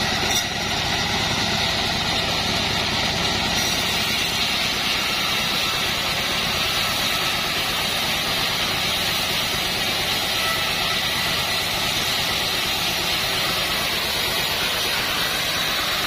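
Homemade band sawmill running steadily, its motor and blade making a continuous, unchanging mechanical noise.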